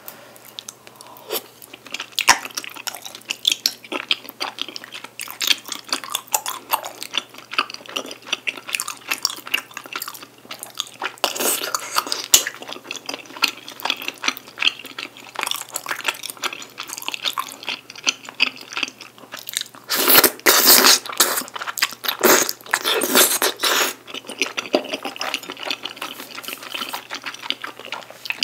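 Close-up eating sounds of a person chewing jjajang tteokbokki, chewy rice cakes in black-bean sauce: steady, wet, sticky chewing with smacks and clicks, and two louder stretches about two-thirds of the way through.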